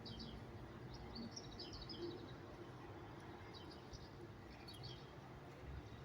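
Small birds chirping in short, quick clusters every second or so, over faint low background noise.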